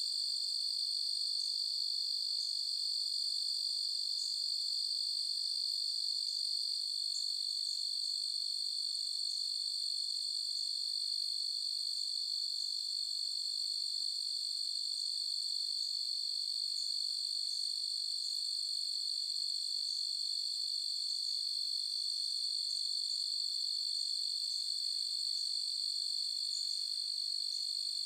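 Night chorus of crickets: a continuous, steady high-pitched trill, with scattered short faint chirps above it.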